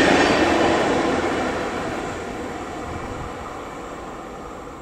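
Rolling noise of a passenger train with Swiss SBB coaches running away from the platform. It is a steady rush of wheels on rail that fades steadily as the train recedes.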